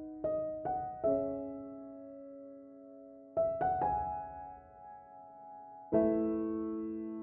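Slow, gentle piano music: single notes struck a few at a time, each left to ring and fade, with a fuller chord near the end.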